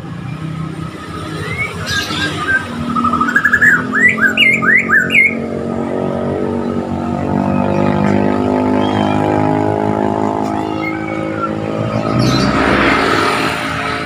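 A motor vehicle engine running, its pitch rising slowly and then holding steady, with a bird giving a quick run of chirping notes about three to five seconds in and a brief rush of noise near the end.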